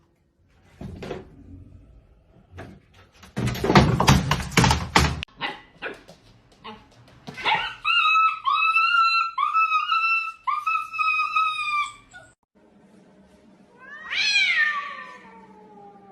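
Domestic cat meowing: a quick run of short, repeated meows for about four seconds, then one longer meow that falls in pitch near the end. Earlier there is a knock and a stretch of clattering and thumping.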